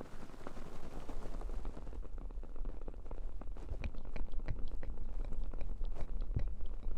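Wood wick candle crackling with many small sharp pops, heard through the dull low rumble and rustle of hands cupping over the binaural microphone's ears; the rumble swells about two seconds in and the pops grow more frequent in the second half.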